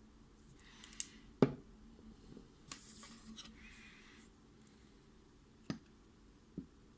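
Small clicks and taps of a Mul-T-Lock MT5+ lock and picking tools being handled, with one louder knock about a second and a half in and a short rustle around three seconds in.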